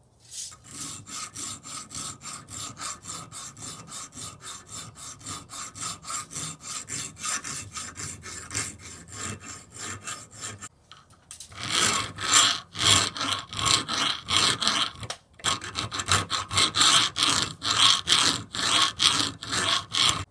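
Hand abrading of a pitted cast-metal antique grass trimmer: quick, even back-and-forth scraping strokes, about four a second, smoothing down casting marks and rust pitting. The strokes stop briefly about halfway through, then resume harder and louder.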